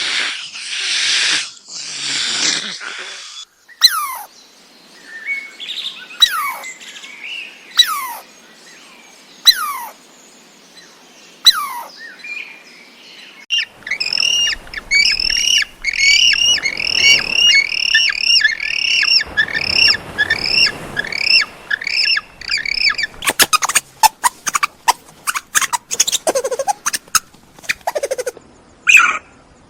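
A sequence of bird calls. It opens with a few harsh, rasping calls. Next come downward-sliding whistles about every two seconds, then a long run of quick, repeated chirps several times a second, and in the last few seconds rapid sharp squawks and clicks.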